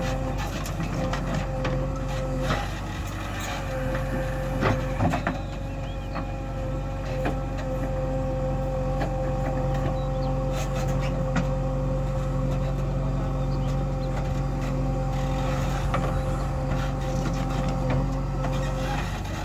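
Heavy diesel engine running steadily under a constant whine, with scattered sharp knocks and clanks.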